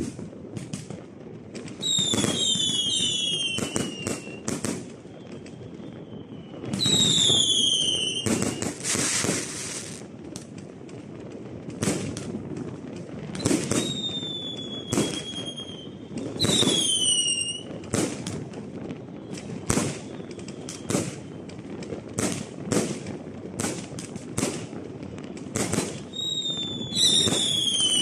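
A fireworks display: a continuous run of bangs from bursting shells, with whistling fireworks whose shrill whistles fall in pitch several times.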